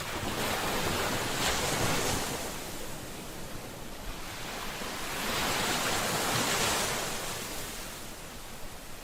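Ocean waves breaking on a shore, a steady rush of surf that swells twice, about four seconds apart, and ebbs between.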